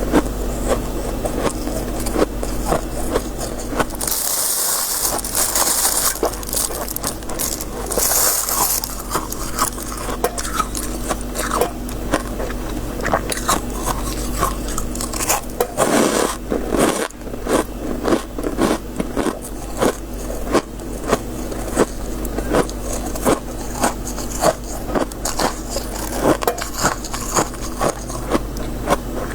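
Freezer frost being scraped and eaten: many crisp crunching bites and chewing, with two hissing scrapes of frost about four and eight seconds in.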